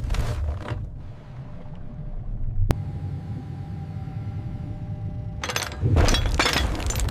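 Deep, continuous rumble of a heavy salvage lift under load, with one sharp crack about two and a half seconds in. From about five and a half seconds comes a loud burst of cracking and crashing, as the sunken hull breaks free under the crane's pull.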